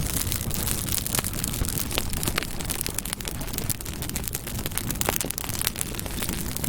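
Campfire burning: wood crackling with frequent sharp pops over a steady low rumble.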